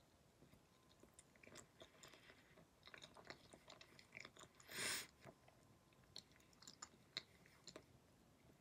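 Faint chewing of a mouthful of banana with the mouth closed: small wet clicks and smacks scattered throughout. A short, louder hiss comes about five seconds in.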